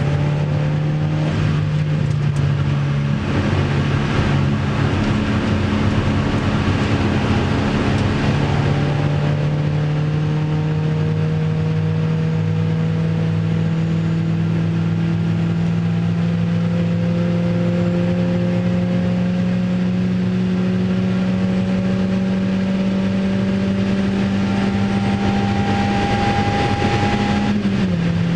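Opel Speedster's 2.2-litre four-cylinder engine, heard from inside the cabin, pulling under full acceleration. Its pitch rises slowly and steadily as speed builds, then drops sharply near the end at an upshift.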